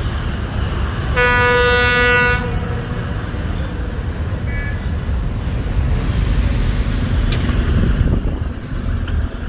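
Freight train's horn sounding one blast of just over a second, over the steady low rumble of the train passing.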